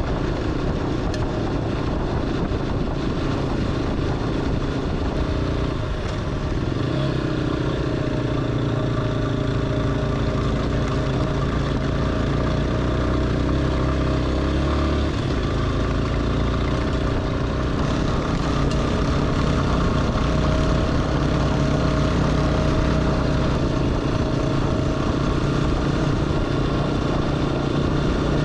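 Single-cylinder Yamaha dual-sport motorcycle engine running under way at a fairly steady pitch, with a brief dip about six seconds in.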